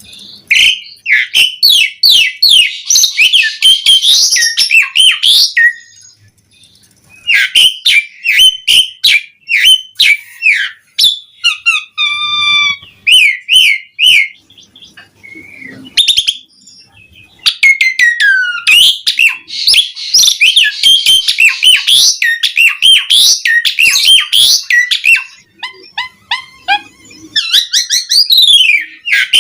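Asian pied starling (jalak suren) singing: long bursts of fast, squeaky chattering notes and whistles, broken by a few short pauses, with one held clear whistle about halfway through.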